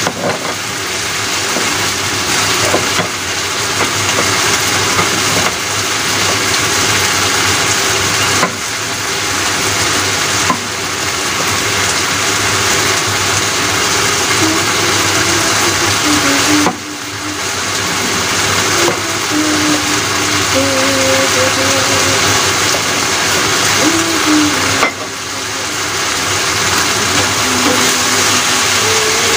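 Stir-fry of beef and shiitake mushrooms sizzling in a frying pan, a steady hiss that dips briefly a few times and comes back.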